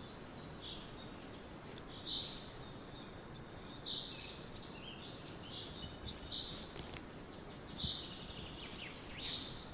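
Wild birds calling: short high chirps repeated every second or two over a steady outdoor hiss.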